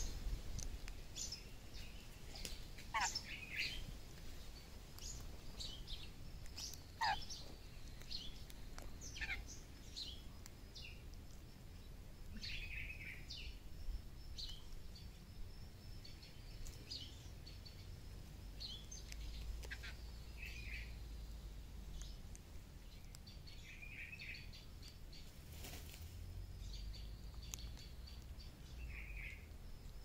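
Birds chirping and calling: short, scattered chirps throughout, with two quick calls sliding steeply downward about three and seven seconds in.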